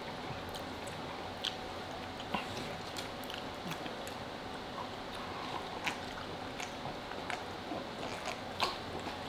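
Close-up eating sounds: chewing and biting food, with scattered sharp mouth clicks and smacks about once a second.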